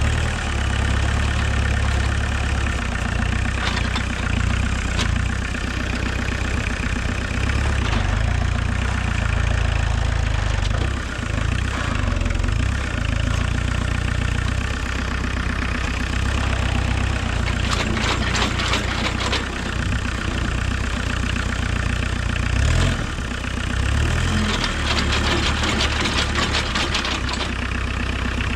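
Homemade 4x4 tractor's VW 1.6 four-cylinder turbodiesel engine running continuously, its note shifting now and then as the load changes. Bursts of rattling clatter come over it about two-thirds of the way in and again near the end.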